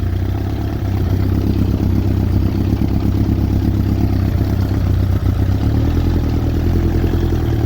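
Yamaha YZF1000R Thunderace's inline-four engine running steadily on freshly cleaned and rebuilt carburettors, a little louder about a second in.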